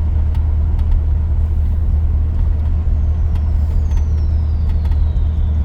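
1983 GMC C2500 pickup's V8 and drivetrain droning steadily while cruising, heard from inside the cab. A faint whistle falls slowly in pitch from about three seconds in.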